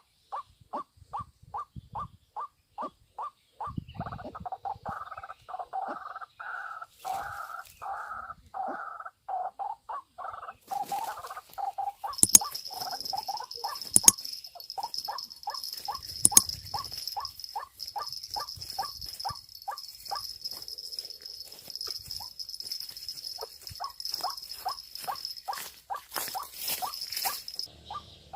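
White-breasted waterhen calling: a long run of short, evenly repeated notes, about three a second, that thickens into a denser double-noted chorus for several seconds. A steady high-pitched buzz joins about twelve seconds in and stops just before the end, with a few sharp clicks near its start.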